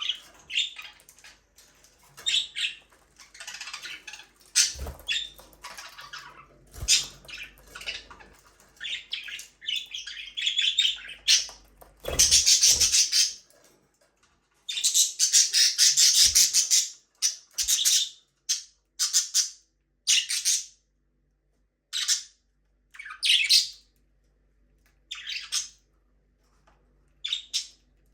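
Pet budgerigars chirping and squawking in irregular bursts of short, high calls, busiest and loudest in the middle, then thinning out to scattered chirps with gaps of quiet.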